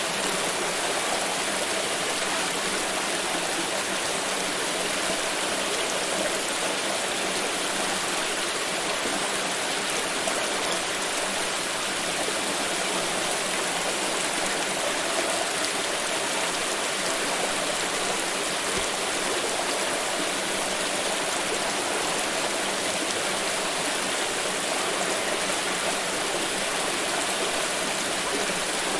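Water pouring and splashing steadily: a continuous, even rush with no breaks.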